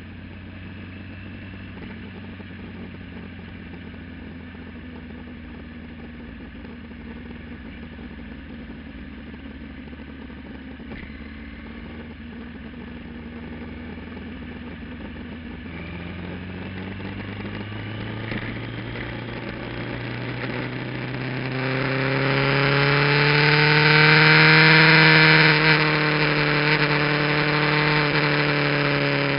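Kawasaki GPZ900R's inline-four with an aftermarket muffler, running at a steady note for the first half, then building revs and growing much louder from about halfway. The pitch peaks near the end and then eases off slightly.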